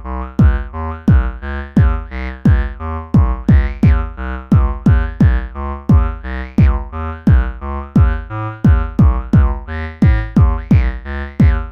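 Electronic synthesizer music: a looping sequence of pitched synth notes stepping between pitches, over a repeating drum-machine beat whose hits drop steeply in pitch.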